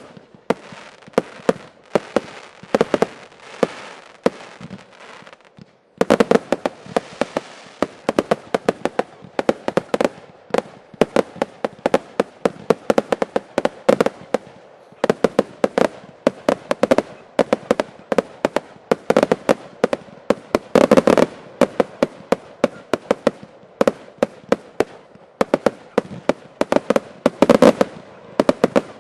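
Fireworks finale barrage: a dense, continuous run of bangs, several a second, with a brief break and an abrupt loud restart about six seconds in.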